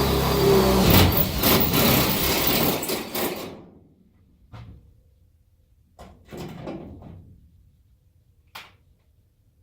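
Power drill running as it bores a hole, stopping about three and a half seconds in; a few short knocks and light clatter follow.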